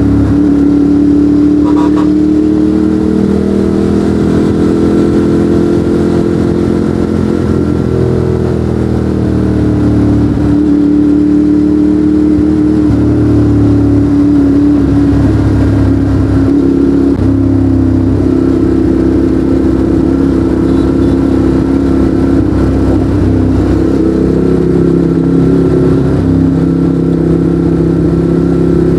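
Ducati Monster 821's V-twin engine running through a Termignoni exhaust while riding, loud and steady, its pitch easing up and down a few times as the revs change.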